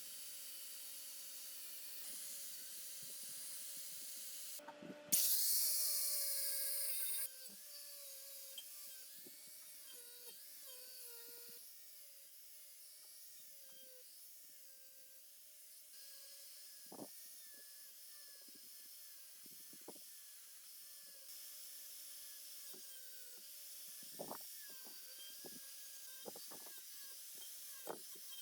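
Workshop tool sounds over a steady electric hum: scraping, rubbing and light knocks on metal parts. About five seconds in, a loud hiss lasts about two seconds and then stops abruptly.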